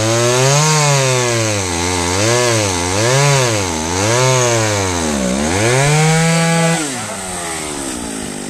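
Chainsaw engine revving up and down about once a second while cutting up storm-felled branches. It holds high for a moment, then drops back to idle about seven seconds in.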